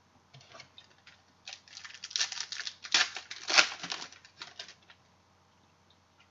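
Sports-card pack wrapper being torn open and crinkled in the hands, an irregular crackling run that is loudest in the middle and stops about five seconds in.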